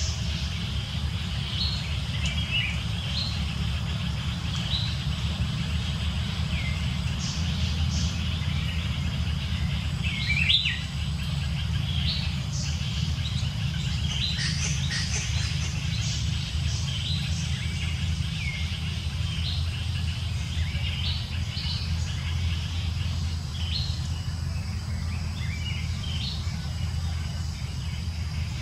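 Birds chirping again and again, in short quick notes, over a steady low rumble.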